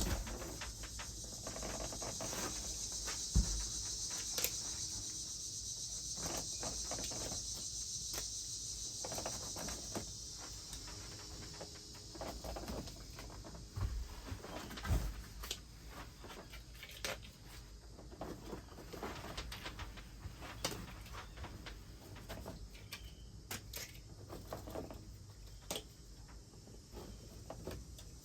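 Light knocks, taps and clicks of a Bedrug liner side panel being handled and fitted in a truck bed, scattered and irregular. A steady high hiss runs under the first ten seconds or so and fades out.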